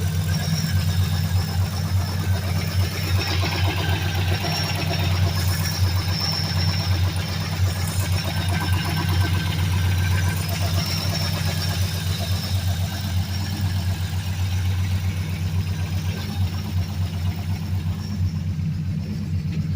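Swapped Ford 5.4-litre V8 with long-tube headers and a full 2.5-inch exhaust, idling steadily with a deep, evenly pulsing exhaust note. The owner says the engine has a rod knock.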